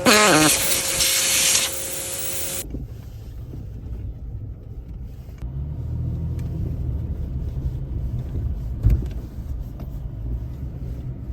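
A loud burst of hiss with steady tones and a quick falling sweep for the first two and a half seconds, then the Toyota Tacoma's engine running at low revs with a low rumble, and a single knock about nine seconds in.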